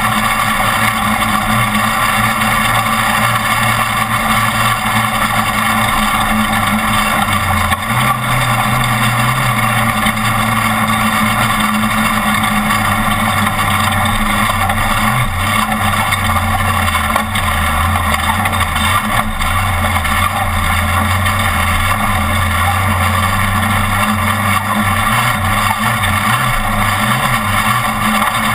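Off-road race truck's engine running hard over a steady rush of road and wind noise, its note stepping up and down with the throttle and gears.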